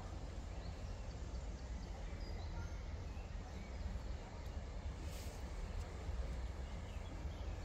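Outdoor ambience: a steady low rumble with faint birds chirping now and then.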